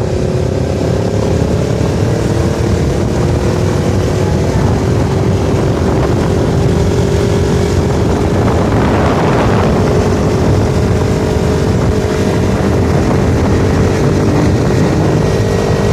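Motorcycle engines running at a steady cruise, their pitch creeping slightly upward, under a constant rush of riding noise; a brief swell of rushing noise comes about nine seconds in.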